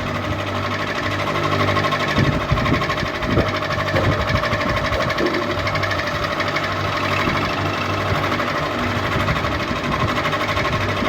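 Ceiling fan running: a steady mechanical whirr and hum with a fast, even pulsing.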